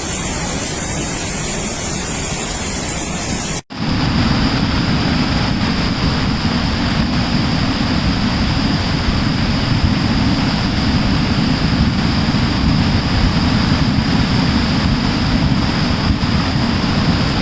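Swollen mountain stream in spate after a cloudburst: a steady loud rush of floodwater. A brief cut about four seconds in, after which the rush is louder and deeper.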